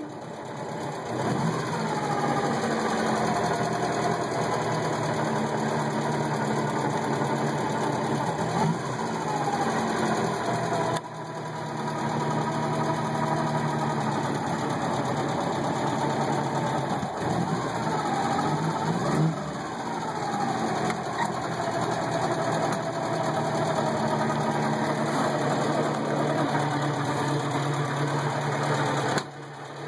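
Moskvitch 402's four-cylinder side-valve engine running steadily, its note rising and falling briefly a few times. The owner notes a slightly noisy water pump and valve clearances that need adjusting.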